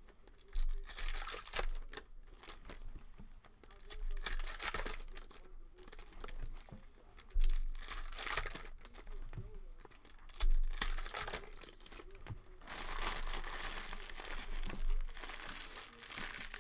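Foil trading-card pack wrappers being torn open and crinkled by hand, in irregular bursts, with a few sharp handling thumps.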